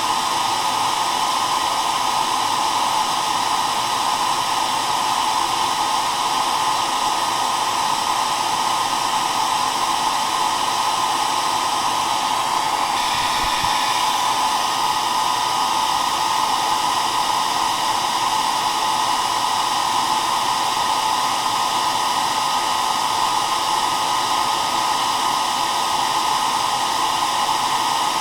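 Hair dryer running steadily: a constant, even rush of blown air and motor whir, loudest in the middle of the range.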